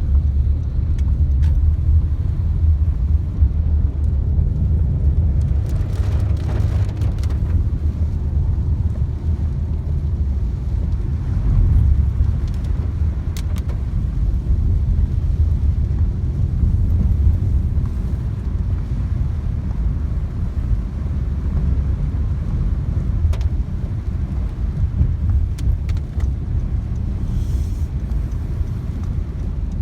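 Heavy rainstorm ambience: a loud, steady low rumble of downpour and runoff water, with scattered sharp taps.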